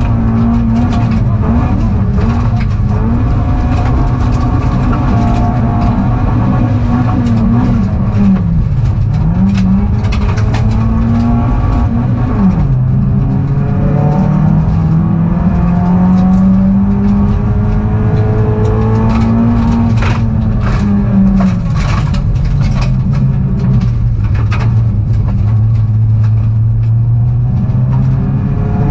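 Rally car's engine heard from inside the cabin under hard driving, its revs climbing and dropping sharply a few times with gear changes and lifts, over loud road and tyre rumble. Scattered sharp clicks and knocks from the car running over the course.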